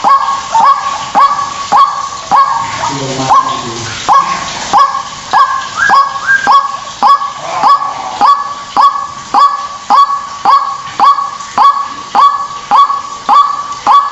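White-breasted waterhen calling: a loud, evenly repeated call note, about three notes every two seconds, each starting sharply and held briefly at one pitch.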